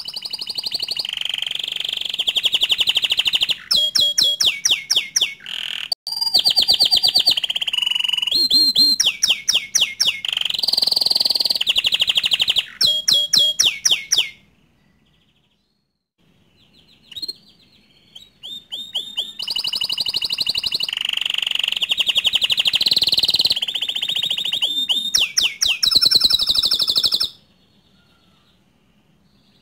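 Green domestic canary singing long bouts of loud song: rapid rolling trills, quick repeated notes and held whistles. There is a pause of a few seconds about halfway, and the song stops near the end.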